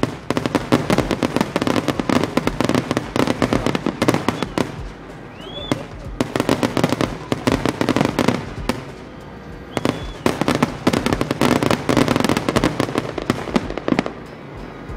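Aerial fireworks going off in rapid, dense volleys of bangs and crackles. They come in three waves, with short lulls about five and nine seconds in, and thin out near the end.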